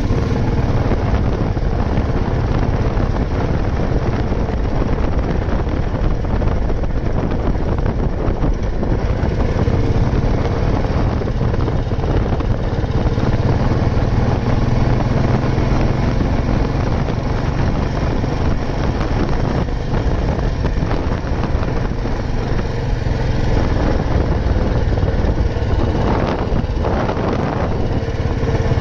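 Old Royal Enfield Bullet 350's single-cylinder engine running steadily while the motorcycle is ridden.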